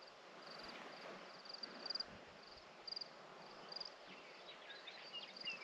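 Faint outdoor evening ambience of crickets chirping in short, evenly repeated pulsed trills, with a few brief higher chirps near the end.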